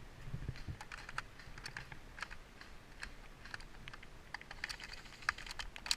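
Irregular light clicks and crackles, scattered unevenly through the whole stretch.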